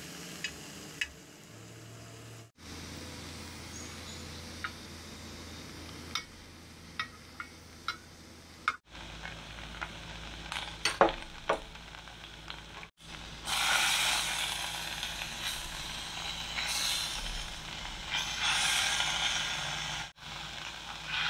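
Tuna steaks frying in curry gravy in a small pan on an electric hotplate: a steady sizzle that grows louder about two-thirds of the way through, with light clinks of a metal spoon and fork against the pan.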